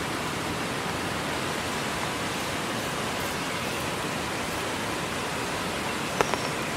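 Heavy rain falling steadily, a continuous hiss, with a couple of sharp ticks near the end.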